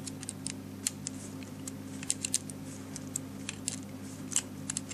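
Irregular light clicks and ticks of a hand tool and bolt working against a 3D-printed plastic U-joint as the bolt is tightened, over a steady low hum.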